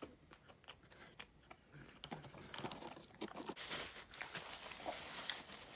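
Close-up chewing of a breaded chicken strip: crisp crunches and mouth sounds, sparse at first and getting busier about two seconds in.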